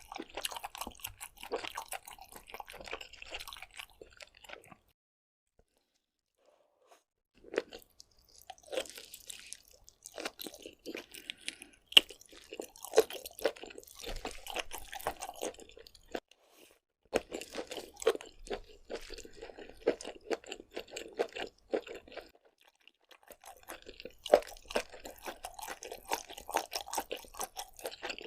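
Close-miked chewing and crunching while eating seafood, in runs of crackly, wet mouth sounds broken by a near-silent pause about five seconds in and a shorter one about twenty-two seconds in.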